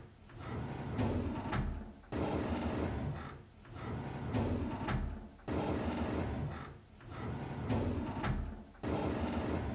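A drawer sliding open on its runners, repeated in a loop about every three and a half seconds, each cycle starting abruptly and followed by a second, gradually swelling slide.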